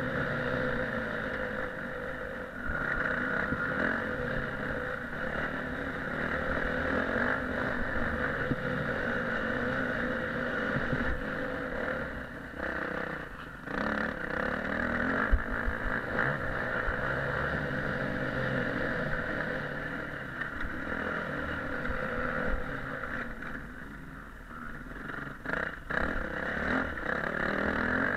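Motocross motorcycle engine running under varying throttle, with a few brief dips in level around the middle and again near the end.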